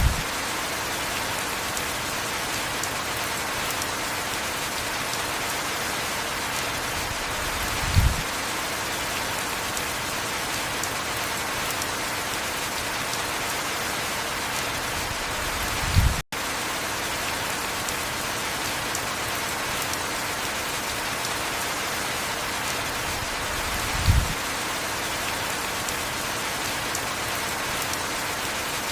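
Heavy rain falling steadily, an even hiss of many drops. A brief low thump comes about every eight seconds, and the sound drops out for an instant about sixteen seconds in.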